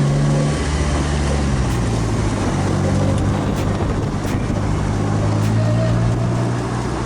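Polaris Slingshot's engine running on the road, its note stepping down in pitch about half a second in and again around a second and a half in, then holding steady, with wind noise on the microphone.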